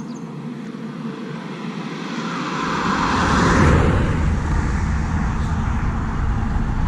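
Highway traffic: a vehicle approaches and passes close by, loudest about three and a half seconds in, leaving a steady low rumble.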